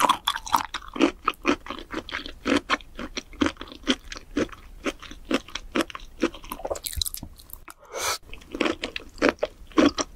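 Close-miked chewing of raw peeled shrimp: quick wet, crunchy mouth clicks, a few each second.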